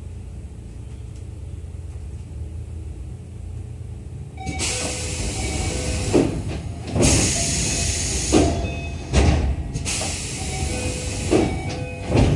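Inside a Keio 7000 series commuter train car as it departs: a low steady hum, then from about four and a half seconds in, loud air hissing that comes and goes in bursts, broken by several heavy low thumps.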